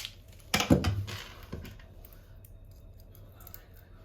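A short clatter of handling noise less than a second in, with a smaller knock just after, then faint scattered clicks.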